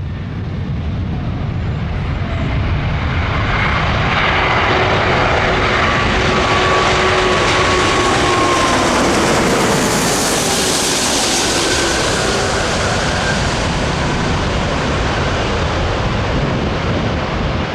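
Airbus A340-600 airliner's four jet engines on landing approach, passing close by. The jet noise builds over the first few seconds and is loudest about eight to eleven seconds in, with whining engine tones sliding slightly down in pitch as it goes past.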